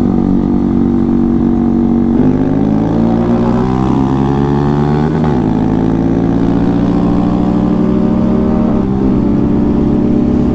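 125 cc single-cylinder motorcycle engine under hard acceleration in a drag race. The revs climb in each gear and drop back at upshifts about five and nine seconds in.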